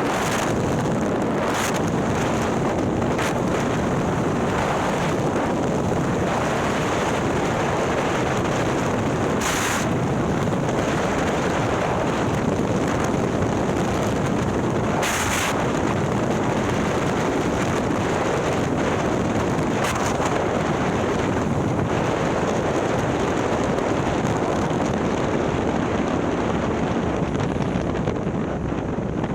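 Harley-Davidson Milwaukee-Eight V-twin, bored out to 130 cubic inches and breathing through a ThunderHeader exhaust, running steadily while the motorcycle is ridden, under heavy wind noise on the microphone with a few short gusts of hiss.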